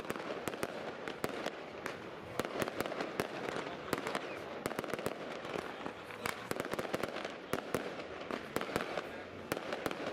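New Year's Eve fireworks: many rockets and firecrackers going off at once, a dense, irregular string of sharp bangs over continuous crackling.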